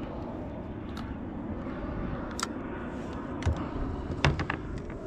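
Steady wind rumble on the microphone, with a few sharp knocks and clicks of gear being handled, the loudest about four seconds in.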